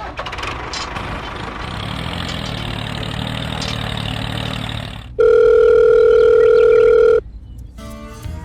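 A steady noisy whir for about five seconds. It breaks off into a loud, steady electronic beep of one pitch, like a dial tone, which lasts about two seconds and then cuts off.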